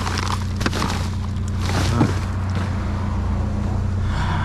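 Truck engine running steadily, with a few sharp knocks over it.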